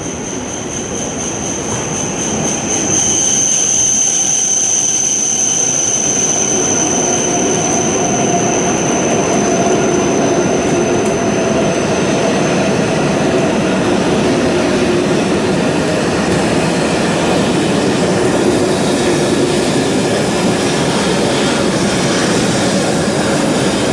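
Shinkansen train running along the platform, the noise building over the first three seconds and then holding steady. A high steady whine fades out about ten seconds in.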